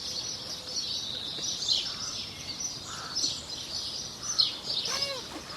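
Birds chirping steadily, with one short, arching lower call about five seconds in.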